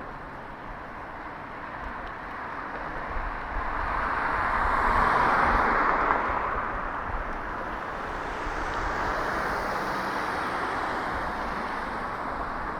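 A car passing on the street, its tyre and engine noise swelling to a peak about halfway through and then fading, with a weaker second swell later.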